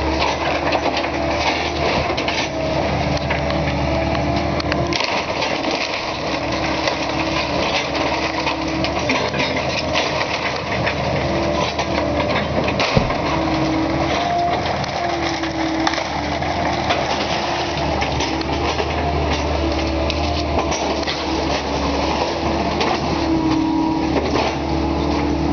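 Excavator demolishing a wood-frame house: its engine runs steadily under a constant crackle and crunch of breaking boards and debris.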